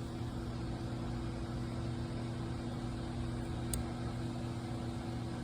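A steady hum with one faint click about three-quarters of the way through: the relay in the 2006 Lexus GS430's ABS circuit, which keeps clicking as it keeps trying and runs very warm, a sign of the fault behind the no-start.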